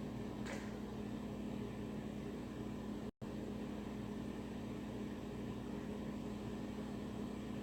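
Steady hum of a kitchen appliance motor, a constant low drone with a hiss over it. There is a faint tick about half a second in, and the sound drops out for an instant about three seconds in.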